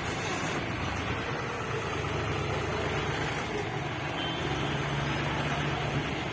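John Deere loader tractor's engine running steadily with an even low hum.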